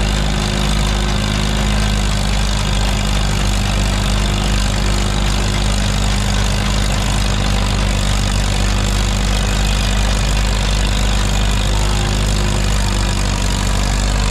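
Antique farm tractor's engine running steadily and loudly, with a deep, even hum, as it pulls the weighted sled down the track.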